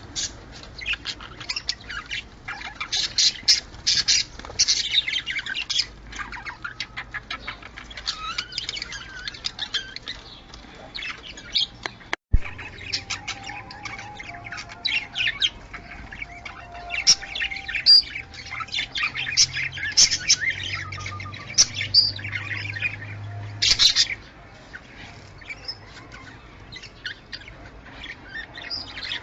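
Budgerigars chirping and chattering in rapid, overlapping warbles with squawks mixed in. There is a sudden brief cut about twelve seconds in, and the calling thins out near the end.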